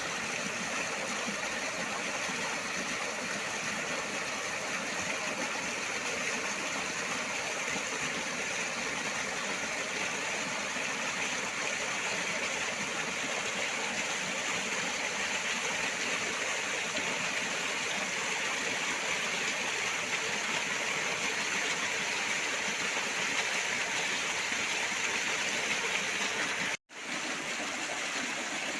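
Steady rush of water falling and splashing from a waterfall, even and unbroken; it cuts out for an instant near the end and then resumes.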